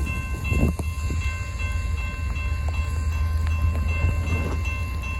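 Norfolk Southern freight train's diesel locomotives giving a steady low rumble, with thin steady high tones held over it, in a downpour.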